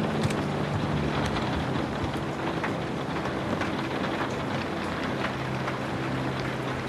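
Steady rain falling, with scattered drop ticks, under soft, low, held notes of ambient sleep music.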